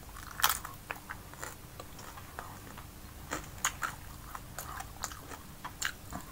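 Close-up sound of a person chewing and biting food with the mouth: a string of short, irregular clicks and crunches, the loudest a little under half a second in.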